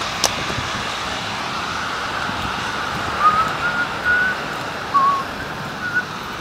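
Steady hiss of rain and wind while walking outdoors, with a sharp click just after the start and a string of short, high squeaks from about three seconds in.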